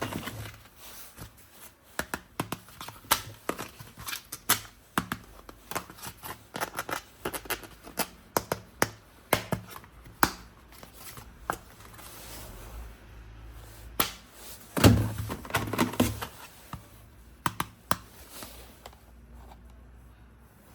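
Irregular small clicks, taps and knocks of hard plastic being handled, with a louder clatter and rustle about fifteen seconds in.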